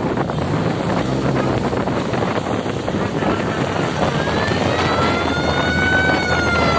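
Vehicle engine and road noise with wind buffeting the microphone. From about halfway through, a pitched whine rises slowly for about three seconds, then starts to fall near the end.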